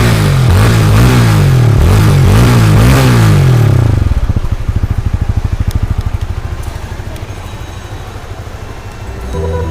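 Honda Supra GTR 150's single-cylinder engine through its stock exhaust, revved in several quick blips, then dropping back to a steady idle about four seconds in. Music comes in near the end.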